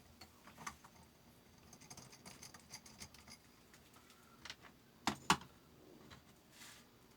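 Scattered light clicks and taps of small metal parts being handled, with two louder clicks about five seconds in.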